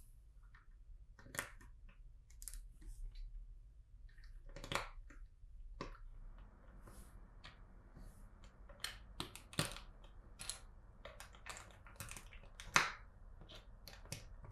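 Plastic LEGO pieces clicking and tapping as they are handled and fitted together, in irregular faint clicks with a few sharper snaps.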